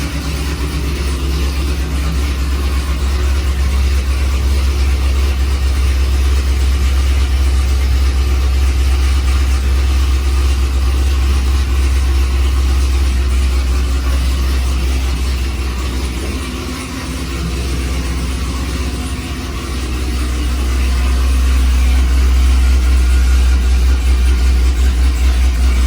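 Cammed 2018 Jeep Trackhawk's supercharged 6.2-litre V8 idling after a cold start, a loud deep rumble through American Racing headers, catless downpipes and a Borla cat-back exhaust. It dips briefly about sixteen seconds in, then grows a little louder from about twenty seconds.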